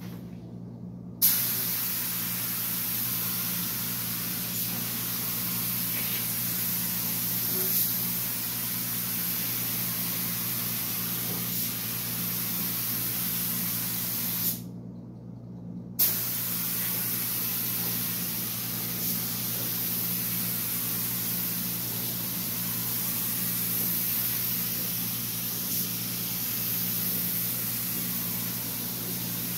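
Compressed-air paint spray gun spraying primer in a steady hiss, which starts about a second in, stops for about a second and a half midway, then resumes. A steady low hum runs underneath.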